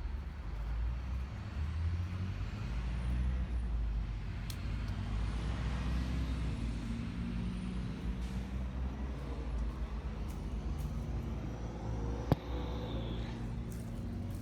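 Steady low rumble and hiss of background noise, with one sharp click about twelve seconds in.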